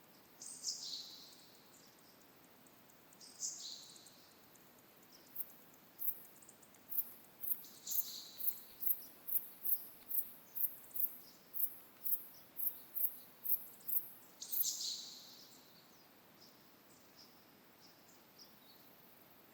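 Wild songbirds calling in a forest: short, high, falling song phrases four times. Through the middle there is a run of very thin, very high ticks, about two a second, over a faint steady outdoor hiss.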